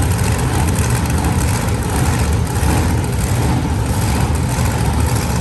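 Monster truck engines running with a loud, steady, low rumble.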